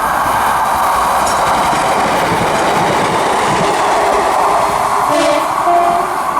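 Class 150 Sprinter diesel multiple unit passing through the station, a steady loud rush of wheel and rail noise. A couple of brief tones show near the end.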